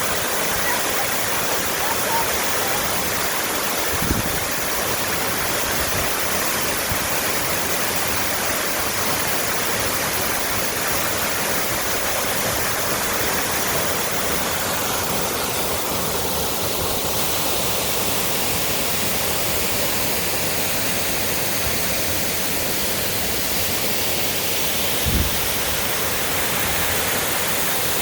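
Waterfall's steady rush of falling water, with two brief low thumps, one about four seconds in and one late on.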